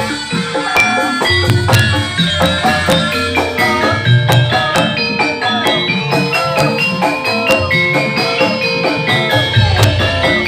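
Javanese gamelan music accompanying a barongan dance: struck metal keys ring out quick runs of notes over steady drumming.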